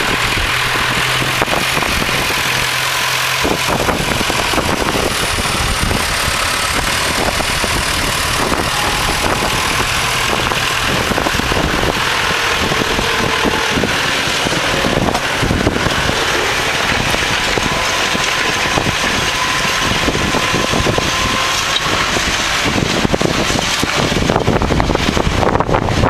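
Massey Ferguson 3075 tractor's diesel engine running steadily under load while pulling a three-furrow reversible plough.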